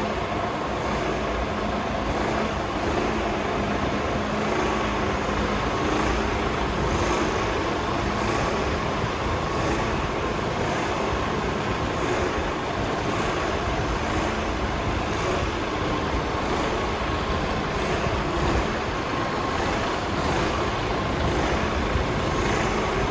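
Mercedes Actros 1840 tractor unit's 400 hp Euro 6 straight-six diesel engine idling steadily.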